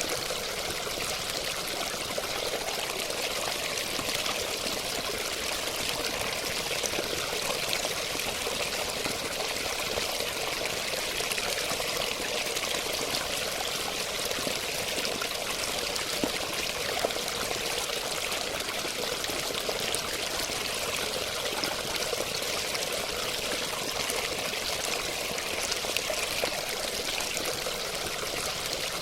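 Running water flowing steadily, a continuous rush with fine splashing and trickling and no change in level.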